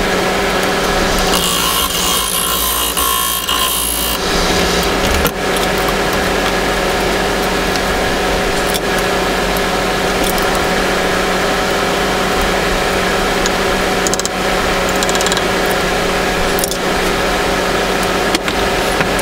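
Wood lathe running with a steady motor hum while a tool works the spinning workpiece, giving a continuous scraping hiss that turns harsher between about one and four seconds in.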